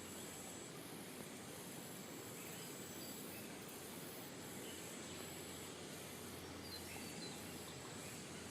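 Outdoor ambience of insects calling in very high pulses about once a second, with a thin steady high whine that comes and goes, over a steady low hiss and a few faint bird chirps.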